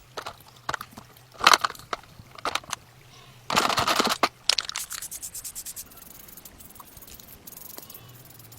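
Hand work on a diecast model car: several sharp clicks and knocks, then a short, loud scraping rasp about three and a half seconds in, followed by a run of quick, even ticks that fades out.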